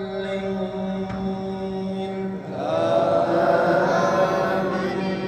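A man's voice chanting Quran recitation in drawn-out melodic tajweed: one long held note, then a louder new note about halfway through with a wavering, ornamented pitch.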